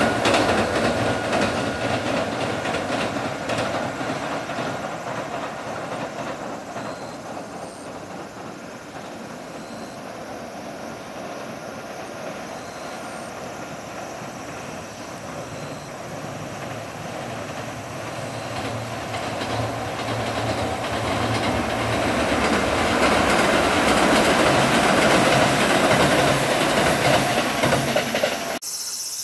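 Kintetsu Kyoto Line electric train running over the Kizugawa railway bridge with a clatter of wheels on rails. The sound fades away, then grows loud again as train noise builds back up, and cuts off abruptly near the end.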